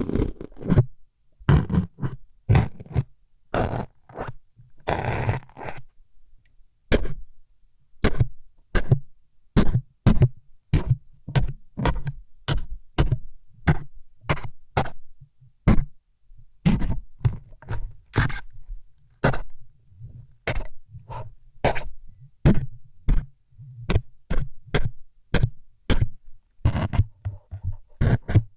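Close-up ASMR stabbing and poking sounds made at the microphone to imitate needles going in: a quick, irregular run of short, sharp jabs, about one or two a second, with a longer scraping stroke about five seconds in.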